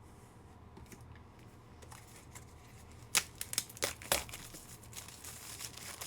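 Packaging crinkling and tearing as the next card is unwrapped, with sharp clicks and snaps starting about three seconds in.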